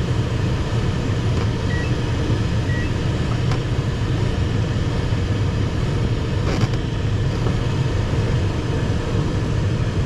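Steady rush of airflow in the cockpit of an ASW 15 glider in flight, with two short faint beeps about a second apart.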